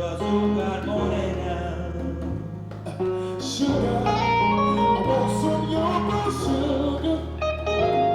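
Live band music: guitar melody over held bass notes that change every second or two, in an instrumental stretch of the trio's song.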